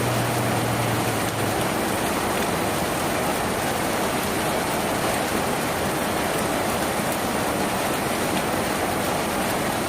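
Steady heavy rain drumming on a tin roof. A low steady hum underneath fades out about a second and a half in.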